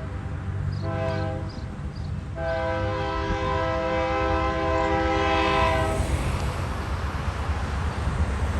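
Freight locomotive's multi-note air horn sounding: a blast ending just after the start, a short blast about a second in, then a long blast that stops about six seconds in. This is the short-then-long close of a grade-crossing horn signal. After the horn, the passing train's engine and rail noise rumble steadily.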